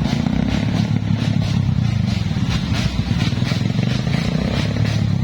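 Suzuki Satria FU motorcycles with open 'brong' exhausts running loud, a steady low engine note with a rapid crackle.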